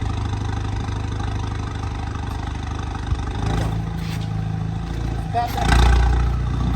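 A vehicle engine idling with a steady low hum, then a deeper, louder rumble swelling up near the end as it is revved.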